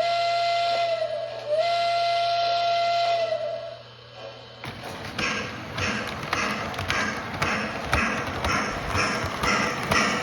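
Lionel B&O Budd RDC model train's electronic horn sounding two long blasts. After a short pause, a steady rhythmic clicking of about two or three strokes a second follows as the model rolls along its track.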